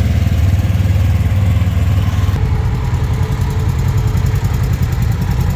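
Engines of side-by-side UTVs running steadily as a line of them goes by, a deep engine hum with no single vehicle standing out.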